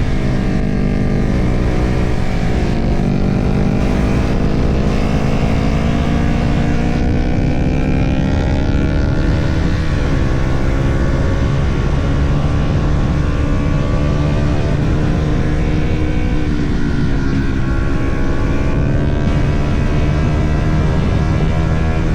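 Small sport motorcycle engine being ridden hard, its pitch climbing under acceleration and falling back a few times (around 2 s, 10 s and 17 s in), with steady wind noise on the on-board microphone.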